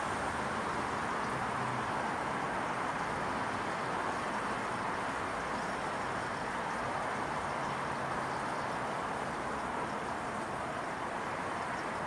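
Steady evening ambience of a residential neighbourhood: an even wash of distant noise with a faint, steady high-pitched tone above it.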